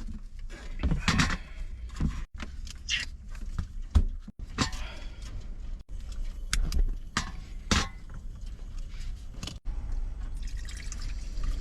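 Water pouring and splashing during cooking prep, with scattered knocks and clinks of cookware being handled.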